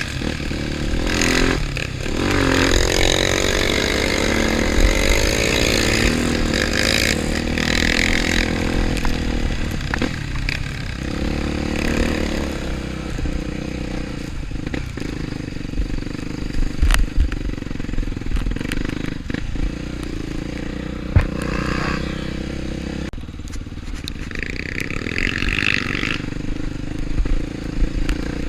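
Off-road motorcycle engine running, revving up in the first few seconds and then running more evenly, with a few short knocks.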